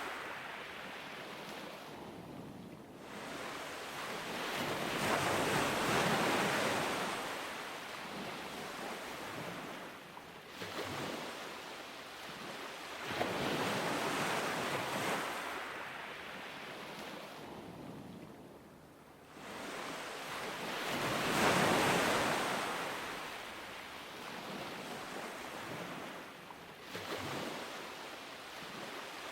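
Ocean surf: waves breaking and washing up the shore, the sound swelling and fading about every eight seconds.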